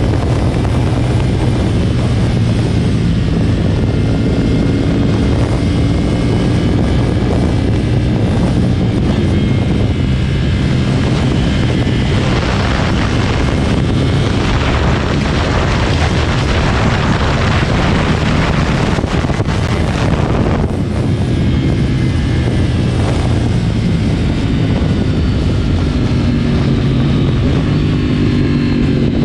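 2010 Yamaha R1's crossplane inline-four running through a decatted Akrapovic exhaust while riding: a steady engine drone, with a louder rushing hiss for several seconds in the middle and the revs climbing near the end.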